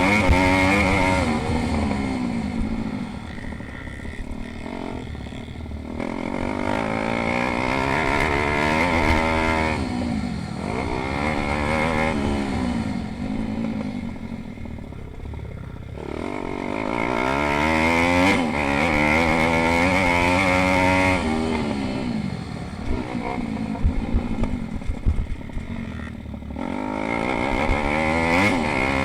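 Pit bike engines racing, their pitch repeatedly climbing as riders accelerate and falling away as they back off, sometimes more than one bike at once. A patch of sharp popping comes about three-quarters of the way through.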